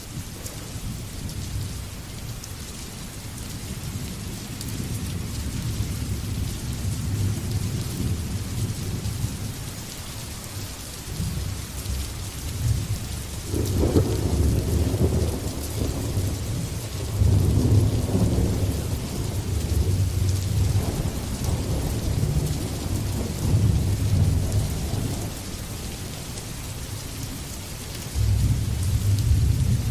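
Steady rain with rolling thunder. Low rumbles build about halfway through and swell several times, ease off, then a new rumble starts near the end.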